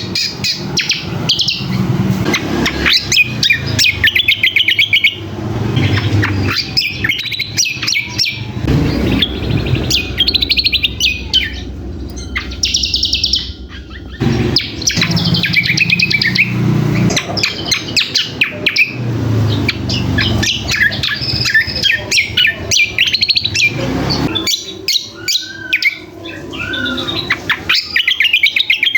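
A small songbird singing a fast, chattering song of rapid trills and twitters in bursts several seconds long, with short pauses between them. A low rumble comes and goes underneath.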